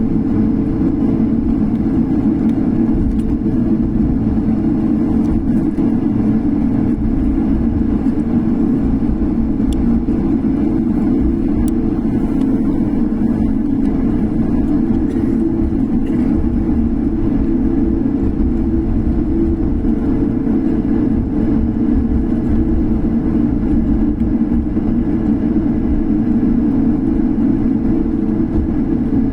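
Steady low drone of an airliner's jet engines heard inside the passenger cabin, with a constant hum over it.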